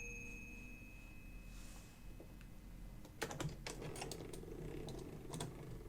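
Olivetti Lettera 22 portable typewriter being worked by hand: a run of faint, irregular mechanical clicks and clacks from its keys and levers, starting about three seconds in.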